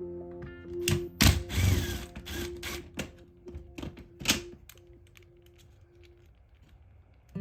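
A handful of sharp knocks and clicks, the loudest about a second in and again about four seconds in, over soft background music that fades away in the second half.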